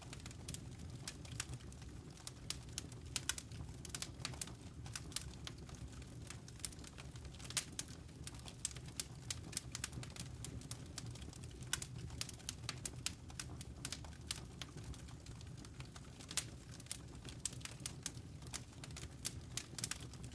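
Wood fire crackling in a fireplace: irregular sharp snaps and pops over a soft low rumble of burning logs.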